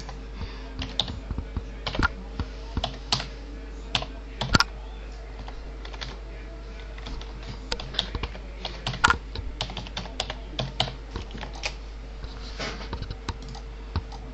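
Irregular series of sharp clicks and taps, a few louder knocks among them, over a steady electrical hum.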